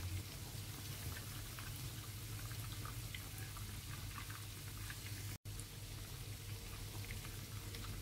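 Egg-battered bread squares frying in plenty of hot sunflower oil in a frying pan: a steady sizzle with a thick patter of small crackles and pops. The sound cuts out for an instant about five seconds in.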